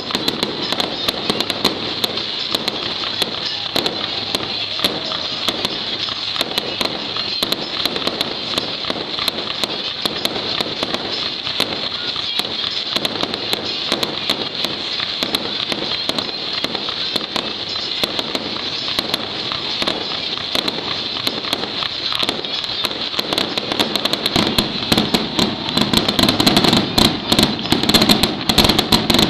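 Aerial fireworks going off in a continuous rapid string of pops and bangs. They grow louder and denser about three-quarters of the way through.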